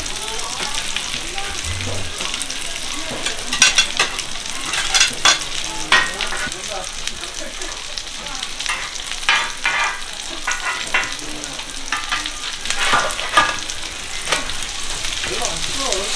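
Oil sizzling on a flat griddle as small donggeurang-ttaeng meat patties and a mung bean pancake fry, with a steady hiss. Metal chopsticks and a spatula click and scrape against the griddle again and again as the patties are turned and pushed together.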